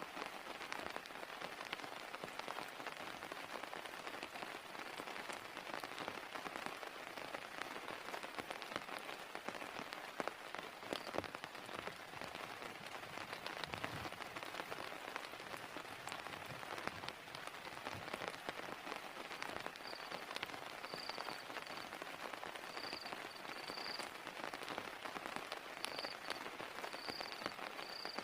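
Heavy rain falling steadily, with many separate drops pattering and clicking on a surface. About two-thirds of the way through, a faint high-pitched pulsing chirp joins in.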